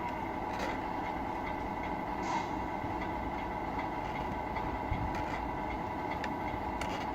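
Tamiya RC truck's electronic sound unit playing a steady diesel engine sound through its small speaker, with a few faint clicks.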